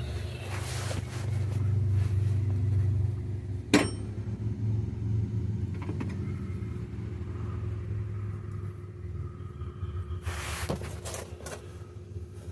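A low rumble, loudest in the first few seconds, with one sharp ringing metal tap about four seconds in: a hammer striking a punch to drive a bearing race into a differential housing. Fainter taps and metal handling noises follow near the end.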